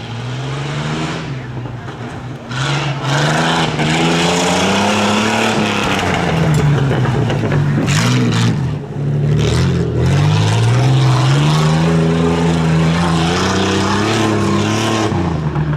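Tuff truck engine revving hard, its pitch climbing and dropping again and again as the driver works the throttle; it gets louder a couple of seconds in and dips briefly about nine seconds in before climbing again.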